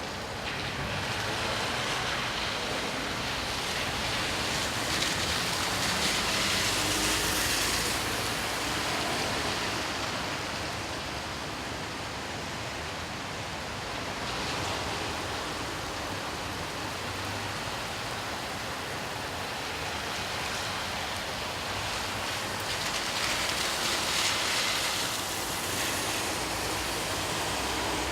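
Steady rain hiss with car tyres swishing past on the wet road twice, once about six seconds in and again near the end, each pass swelling and fading over a few seconds.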